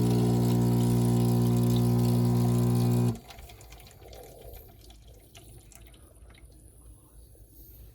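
Espresso machine pump humming steadily as it pushes water through the coffee puck to brew a shot, then cutting off suddenly about three seconds in.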